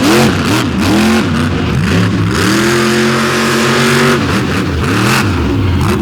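Monster truck's big Vance engine revving in quick rising-and-falling bursts, held at high revs for about a second and a half in the middle, then blipping again.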